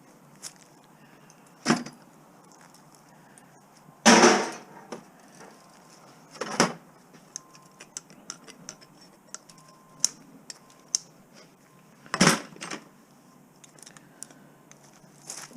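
Scrap metal pieces being handled and dropped: four loud clanks, the loudest about four seconds in with a short ring, and many small clinks and taps between them.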